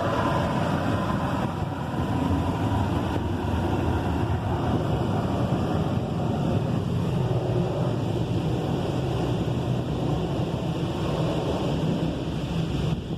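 Side carriage blasters of a Washworld Razor car wash spraying high-pressure water against the car, heard from inside the cabin as a steady rushing noise.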